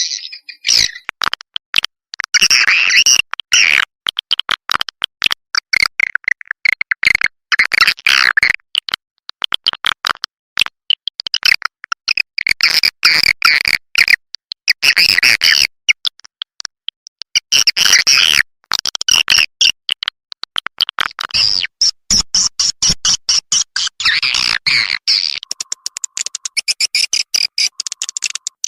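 Swiftlet lure recording: rapid, high-pitched twittering and clicking chirps of swiftlets in repeated bursts with short gaps, the kind of call track played to draw swiftlets into a bird's-nest house. A steady tone comes in under the chirps for the last few seconds.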